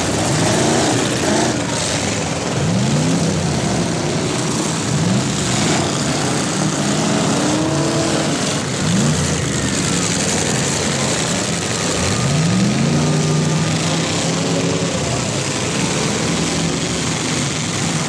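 Several demolition derby cars' engines revving hard, their pitch sweeping up again and again over a steady din of engines and spinning tyres, with a few bangs of cars colliding.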